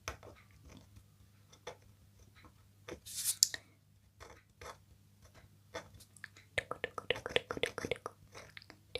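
Close-miked ASMR trigger sounds: small crisp clicks and scrapes, with a short loud hiss a little after three seconds in and denser rapid clicking from about two-thirds through.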